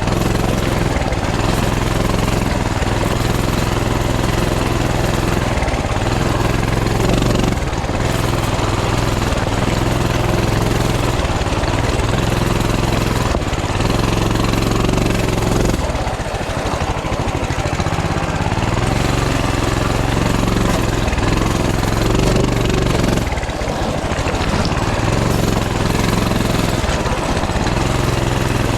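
Coleman CT200U mini bike's small single-cylinder four-stroke engine running hard while it is ridden over rough rocky ground, the revs steady with two short drops when the throttle eases, about halfway through and again near three-quarters.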